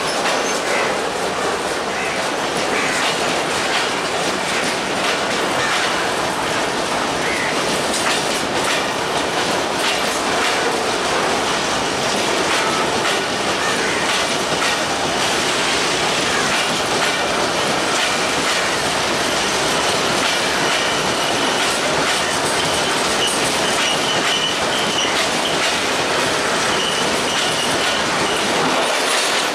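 Bogie oil tank wagons of a long freight train rolling past at close range: a steady clatter of steel wheels over the rail joints. A faint high wheel squeal comes and goes in the second half.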